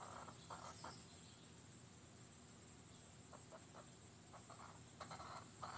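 Near silence: a faint outdoor background with a few short, soft bird calls scattered through it.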